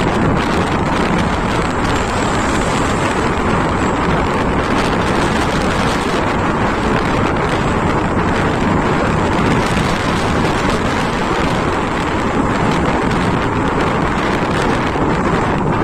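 Steady wind rush over the microphone on a moving motorcycle, mixed with the bike's engine and road noise.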